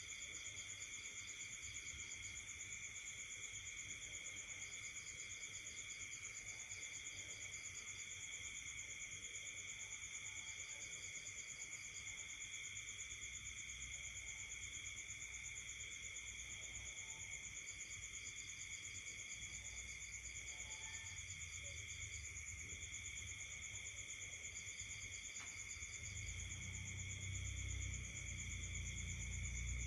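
Night chorus of crickets and other insects: several steady, high trills at different pitches run on together, while a faster pulsed trill starts and stops in short runs several times. A low rumble comes up over the last few seconds.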